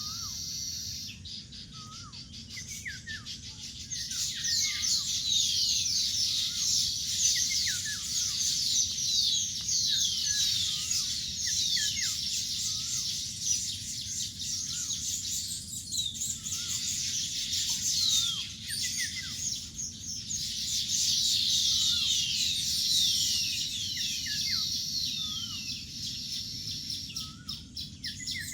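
Baya weavers chattering: a dense, continuous twittering of quick downward-sweeping high notes that grows louder about four seconds in, with short lower hooked calls repeating every second or two.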